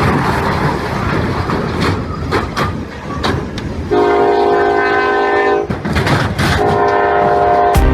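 A train rumbling with clicking wheels for about four seconds, then its horn sounding a chord in two long blasts.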